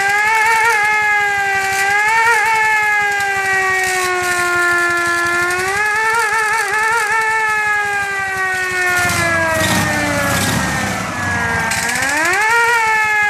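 Restored siren on a 1987 Ural militia motorcycle wailing, its pitch wavering and slowly sinking, then sagging lower about nine seconds in before swooping sharply back up near the end.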